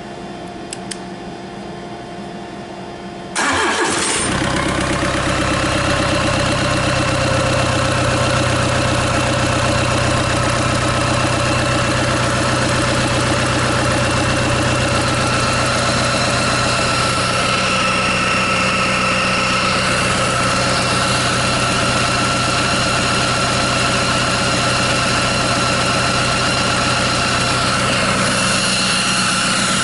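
Kia J3 2.9-litre four-cylinder diesel engine, running out of the vehicle on a test stand, cranks briefly and starts about three seconds in, then idles steadily.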